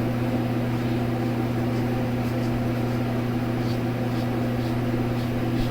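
Electric fan running with a steady hum and airy hiss.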